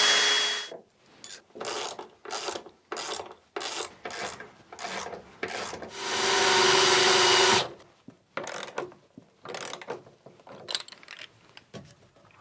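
Power drill running: a steady whirr that stops just under a second in, then a string of short trigger spurts about twice a second, another steady run of about a second and a half six seconds in, and more short spurts.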